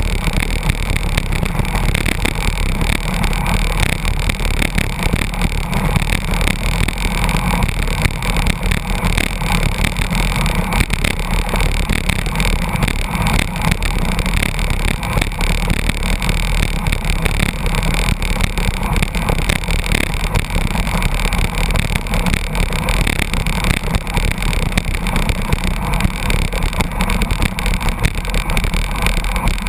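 Steady rush of wind and road noise while riding a bicycle close behind a truck in its slipstream at about 82 km/h, unbroken throughout.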